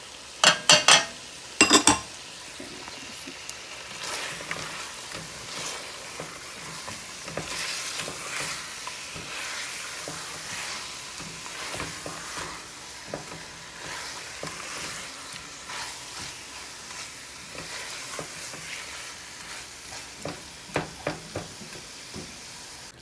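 Chicken pieces frying and sizzling in oil and masala in a stainless steel pot while a plastic spatula stirs and scrapes them round the pot: the bhuna stage, browning the chicken with the freshly added chili powder and turmeric. A few sharp knocks near the start as the spice bowl is tapped out against the pot.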